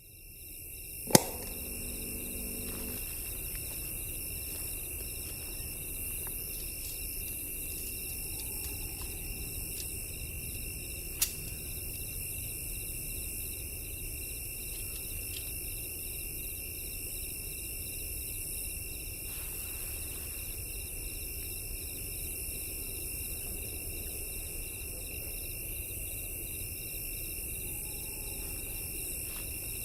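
Crickets and other insects trilling steadily, with a higher pulsing chirp over it. A sharp click comes about a second in and a fainter one about eleven seconds in.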